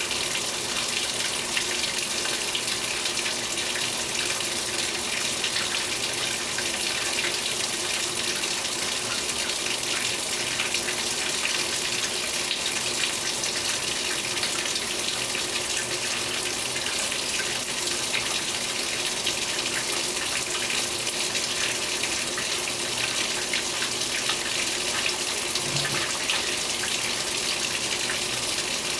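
Water pouring steadily into the tub of a 2015 Speed Queen 8 Series top-load washing machine as it fills, with a faint steady hum beneath.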